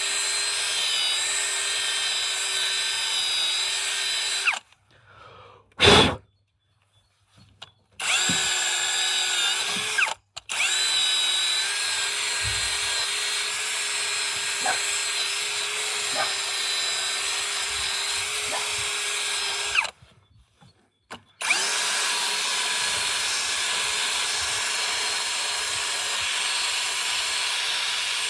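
Handheld electric power tool, drill-like, running with a steady whine. It stops and restarts a few times, about five, ten and twenty seconds in, with one short loud burst in the first gap.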